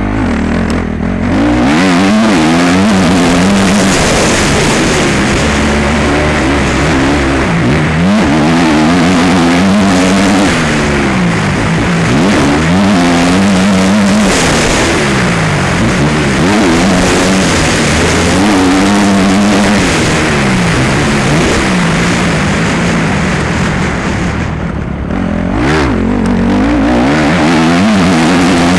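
Motocross bike engine revving up and easing off again and again. Its pitch climbs and drops every couple of seconds as the bike accelerates, shifts and slows around the track.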